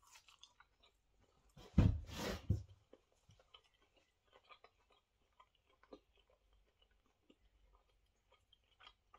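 A person chewing a bite of well-done steak, with small soft clicks of chewing throughout. A louder, fuller rustling noise comes about two seconds in.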